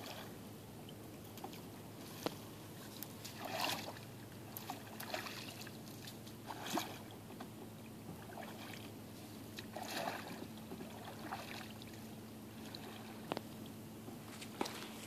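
A paddle dipping and splashing in pond water at irregular intervals, with a few small knocks, as a refrigerator used as a boat is paddled along.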